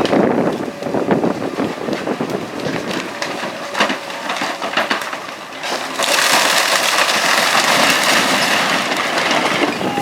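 Wood cracking and crunching in demolition debris, with scattered sharp clicks; about six seconds in a steady hissing noise starts abruptly.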